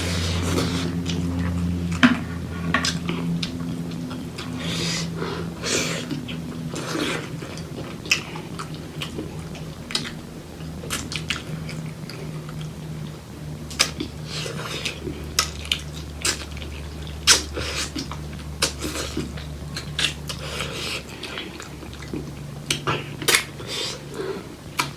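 Close-miked chewing of pork leg curry and rice: wet chewing and smacking with many short sharp clicks of dish and utensil contact. A steady low hum runs underneath.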